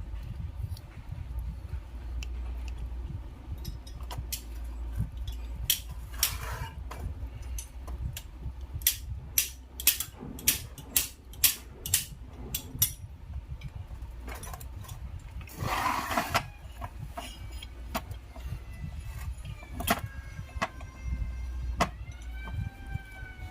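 Metal tools and starter-motor parts clinking and clicking as they are handled, with a quick run of sharp metallic taps in the middle. There is a short rushing sound about two-thirds of the way through, over a low background rumble.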